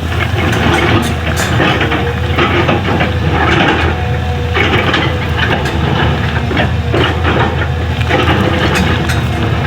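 Excavator's diesel engine running steadily, with scraping and crunching that swells and fades as the bucket digs into the road surface.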